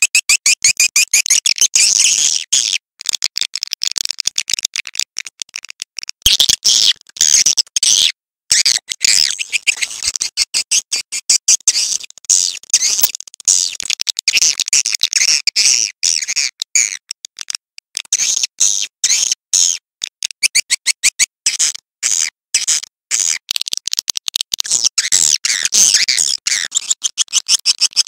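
Recorded swiftlet calls: a dense, rapid stream of high-pitched chirps and clicking twitters, with a few brief breaks. This is a swiftlet lure-call track of the kind played to draw birds into a nesting house.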